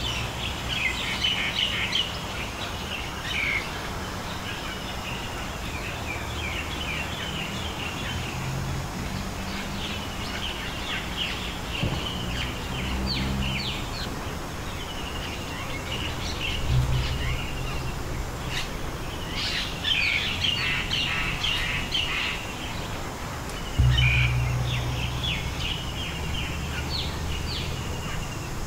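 Small birds chirping and twittering over and over, with a low rumble that comes and goes in stretches, starting and stopping abruptly.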